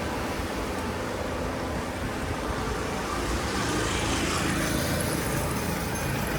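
Road traffic noise on a city street: a steady rush of cars going by.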